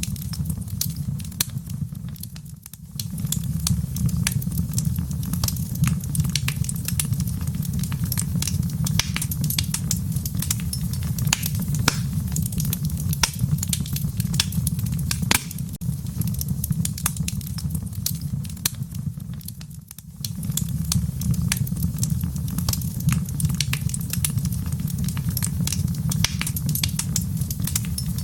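Wood fire crackling in a fireplace: a steady low rumble with frequent sharp pops and snaps. The rumble briefly drops away twice, about three seconds in and near twenty seconds.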